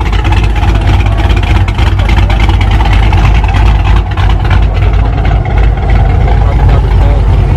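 Car engine running steadily near idle, a loud, low rumble.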